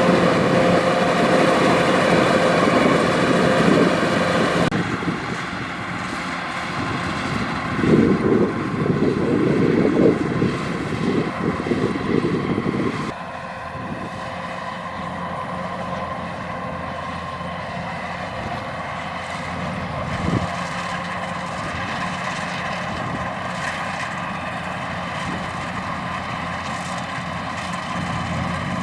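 Kubota DC-105X rice combine harvester running steadily, its engine and machinery giving a steady hum. The sound changes abruptly about five seconds in and again about thirteen seconds in, and is rougher and louder for a few seconds in between.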